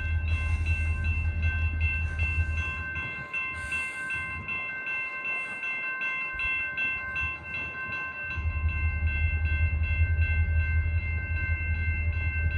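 Railroad grade-crossing bell ringing at a steady, even pace over the low rumble of a train, the rumble dropping away for a few seconds in the middle and then returning.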